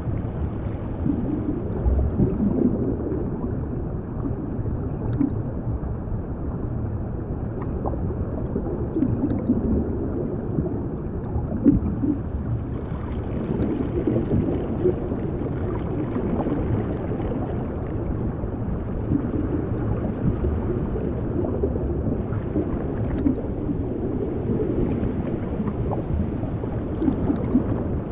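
Underwater ambience: a muffled, steady rumble with irregular bubbling, as heard below the water's surface.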